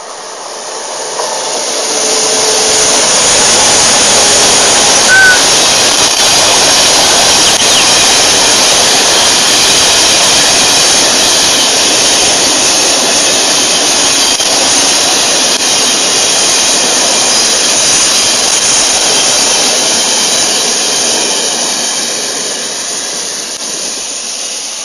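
ONCF electric locomotive E-1257 and its passenger coaches passing close by, with a loud, steady rushing rolling noise. It builds over the first two or three seconds and eases slightly near the end.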